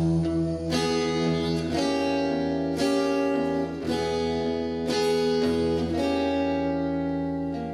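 Music with no singing: an acoustic guitar strummed in chords about once a second over steady held low notes.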